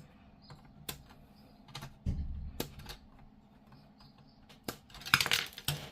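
Plastic model kit parts being handled and fitted together: scattered light clicks and taps about once a second, a dull knock about two seconds in, and a quick cluster of clicks near the end.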